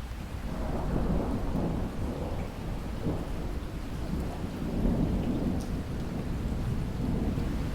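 Rolling thunder rumbling low over steady rainfall, the rumble swelling about half a second in and carrying on in waves.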